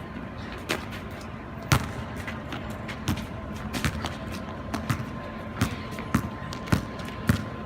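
Basketball bouncing on a wet outdoor court: about ten sharp, irregularly spaced thuds over a steady hiss of rain.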